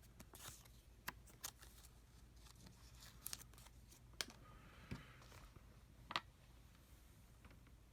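Near silence broken by scattered faint clicks and light taps from small parts of an opened MacBook Pro being handled, the sharpest about a second in and about six seconds in.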